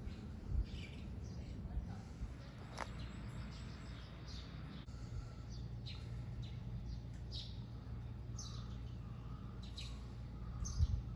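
Birds chirping outdoors: short, high calls scattered every second or so over a steady low rumble.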